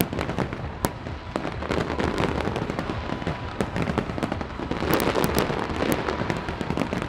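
Fireworks display: dense, rapid crackling from many bursting crackle stars, with a few sharper bangs standing out, one a little under a second in and a cluster around five seconds in.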